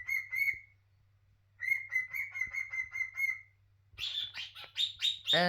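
Pet cockatiel calling: two runs of short chirps repeated at one steady pitch, about three or four a second, with a brief pause between, then a quicker, higher-pitched series of chirps near the end.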